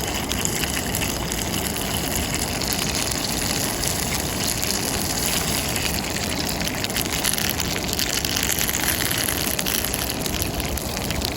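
Gyoza frying in a pan over a campfire: sesame oil drizzled round them sizzles and spatters steadily as the bottoms crisp in the last stage of cooking.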